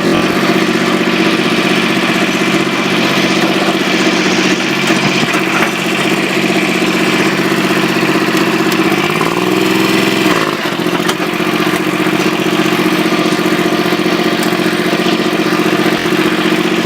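Four-wheel-drive tractor engine running at a steady idle, revving up briefly about nine seconds in and dropping back about a second and a half later.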